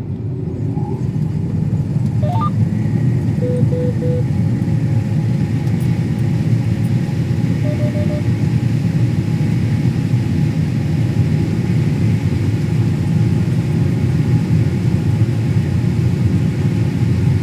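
Combine harvester running in the corn, a loud steady low rumble. Two faint runs of short beeps come about four and eight seconds in.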